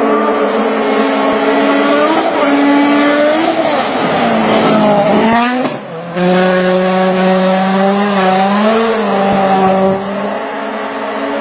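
Rally car engine driven hard at high revs, its pitch climbing and then dropping several times as it goes through the gears. Just before six seconds in, the sound dips briefly and the pitch sweeps down and back up. After that the engine holds a steadier high note.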